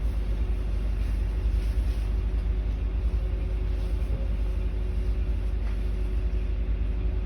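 Steady low rumble of a bus's engine and road noise heard inside the passenger cabin, with a faint steady hum over it.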